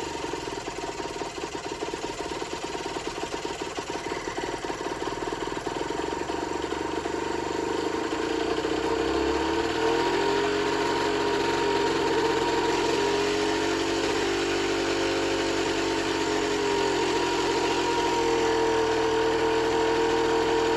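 Generic Trigger SM 50cc two-stroke motorcycle engine idling: rough and uneven for about the first ten seconds, then settling into a steadier idle whose pitch wanders up and down. The engine is not running right after its carburettor work.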